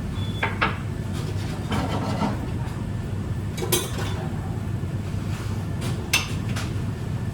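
Kitchen clatter: a handful of sharp clinks and knocks of dishes and utensils being handled, spaced a second or two apart, over a steady low hum.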